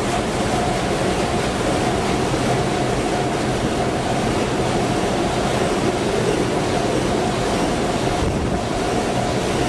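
Sulzer 12RTA96C twelve-cylinder two-stroke low-speed marine diesel main engine running steadily at 70 revolutions per minute: a loud, even engine-room roar with a constant low hum and a steady higher whine.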